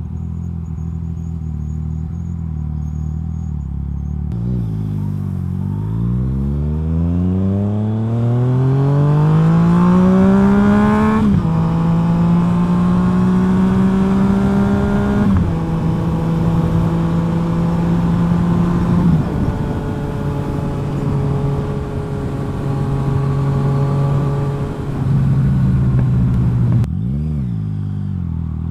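Yamaha FZ-09's three-cylinder engine breathing through a full M4 exhaust under way, accelerating with a steadily rising pitch and then upshifting twice, each shift a sudden drop in pitch, before settling into a steady cruise. Near the end the revs dip and climb again.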